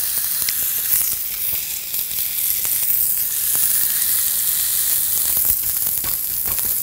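Pork sausage patties and scrambled eggs sizzling on an electric griddle: a steady high hiss with scattered small crackles.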